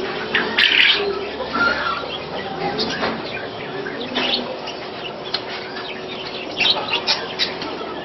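Caged birds chirping, budgerigars among them: many short, high chirps scattered throughout, bunched about half a second in, around four seconds in and again near seven seconds.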